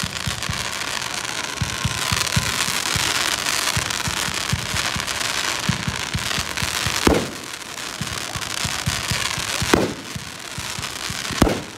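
Fireworks display: a dense run of rapid pops, with three louder booms in the second half.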